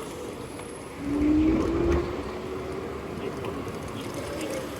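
Riding noise in city traffic: a steady rush of wind and road. About a second in it grows louder for a second, and a single whine rises slowly in pitch, from the scooter's motor or a passing vehicle.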